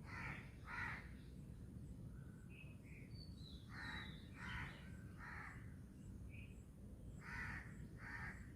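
Harsh, crow-like cawing calls, each about a third of a second: a pair, then three, then another pair. Fainter short high chirps from smaller birds come in between.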